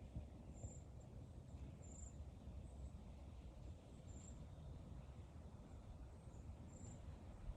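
Faint wind rumbling on the microphone, with faint, short, high-pitched chirps repeating about once a second.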